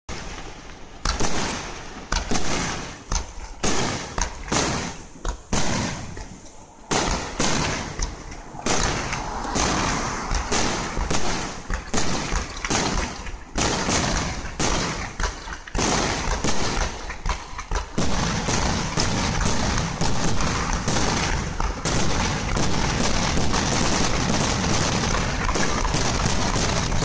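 Fireworks finale: aerial shells bursting in quick succession, the bangs coming ever faster until, about two-thirds of the way through, they run together into a continuous barrage.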